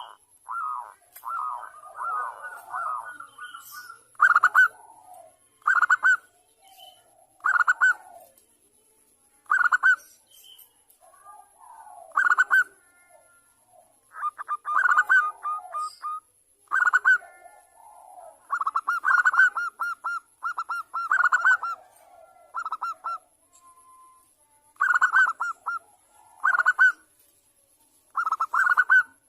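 Zebra dove (perkutut) cooing: short phrases of quick staccato coo notes, repeated every one to two seconds, with a longer run of phrases about two-thirds of the way through.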